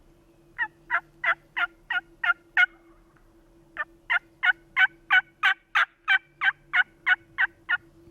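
Turkey call worked close by, making hen yelps: a run of seven even yelps, a short pause, then a longer run of about thirteen, calling to draw a gobbler to answer.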